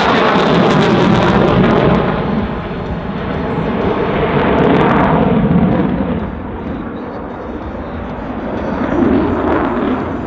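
An F-16 Fighting Falcon's single jet engine making a loud rushing noise as the fighter flies its display. The noise swells and fades, easing off about seven seconds in and building again near the end.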